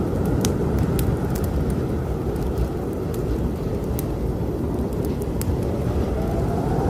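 Strong snowstorm wind blowing in a steady, low roar that swells slowly, with a wood fire in a fireplace crackling in scattered sharp pops over it.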